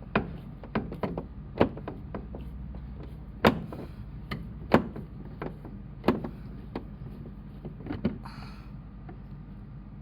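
Irregular sharp knocks and clicks, about a dozen, over a steady low hum, with a short hiss just after 8 seconds.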